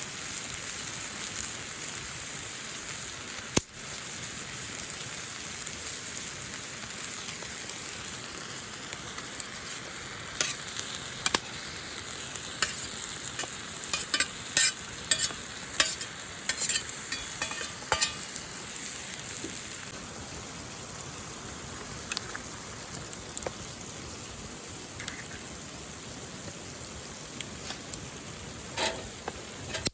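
Goya champuru (bitter melon, tofu and egg) sizzling as it stir-fries in a pan, with a spatula clicking and scraping against the pan in a run of quick strokes in the middle.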